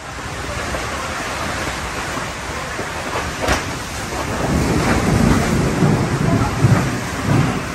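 Torrential rain drumming on a large tent's roof, a steady rush, with a low rumbling that swells in the second half. A single sharp knock comes about three and a half seconds in.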